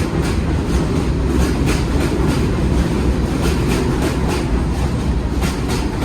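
New York City subway train running on the track: a steady low rumble with the wheels clicking over rail joints, often in quick pairs.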